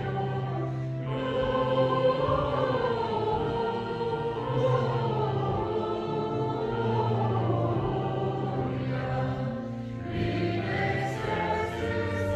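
A church choir singing a Christmas hymn over steady, sustained organ tones, in long held notes.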